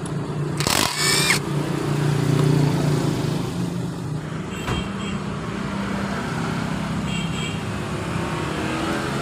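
A motor vehicle engine running steadily, with a brief louder whirring burst about a second in and a few light clicks later.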